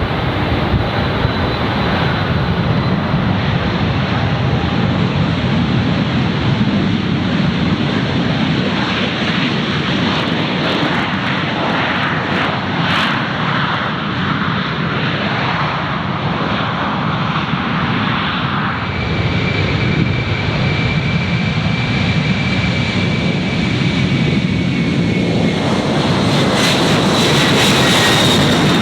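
Jet airliner engines running: a loud, steady rush with a high turbine whine. A second whine comes in past the middle and slowly falls in pitch, and the noise swells near the end.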